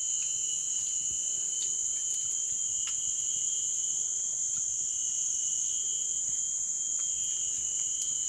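Steady, high-pitched chorus of forest insects, several even tones held without a break, with a few faint ticks over it.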